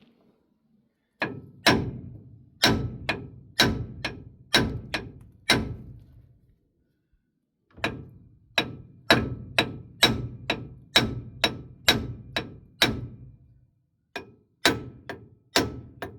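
Hammer blows on an M35A2 front axle, about two a second in three runs with short pauses between, each strike ringing on briefly, as the stuck inner oil seal carrier is knocked loose.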